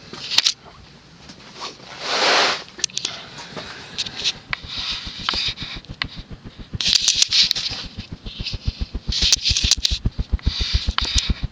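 Fanimation Prop 60-inch three-blade DC ceiling fan spinning up on its top speed, 6: the blades' air buffets past in low rhythmic pulses, about six a second and growing stronger, with gusts of airy whooshing in between.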